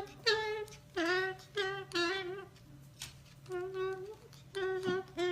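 White parrot singing a wordless tune: a string of short, held, pitched notes with brief pauses between them.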